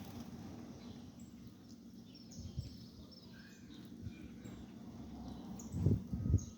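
Small birds chirping now and then over a steady low hum, with a few louder low thuds near the end.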